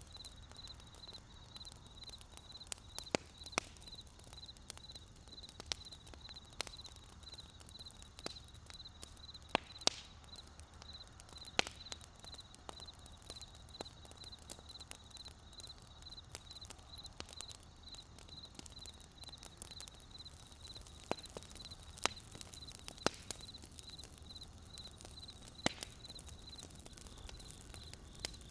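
Wood campfire crackling, with sparse sharp pops at irregular intervals, a dozen or so louder than the rest. Behind it runs a steady, evenly pulsed high chirping.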